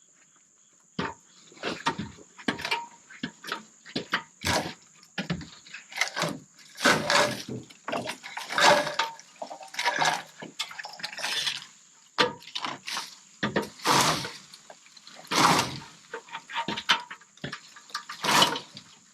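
Irregular knocks, clatters and scrapes, some louder than others, over a steady high-pitched drone of insects.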